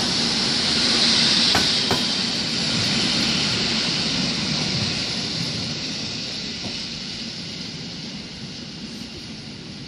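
EN57 electric multiple unit rolling past and pulling away, its running noise and hiss fading steadily. Two sharp wheel clicks over rail joints come close together about a second and a half in.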